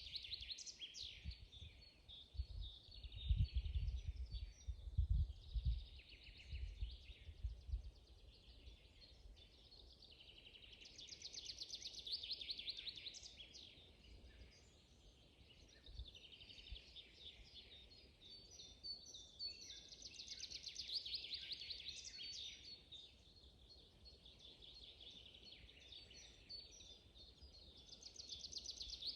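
Songbirds singing, with trilled phrases and chirps coming again and again and overlapping. Between about three and eight seconds in, a few low thumps or rumbles are the loudest sounds.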